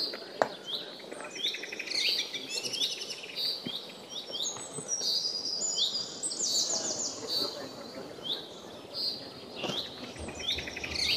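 Several birds chirping and calling from the forest, with many short repeated chirps and quick trills overlapping.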